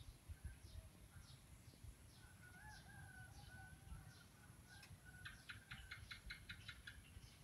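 Faint birds calling in the distance: thin repeated downward chirps, a wavering call held for about three seconds midway, then a quick run of about a dozen sharp notes near the end, over a low background rumble.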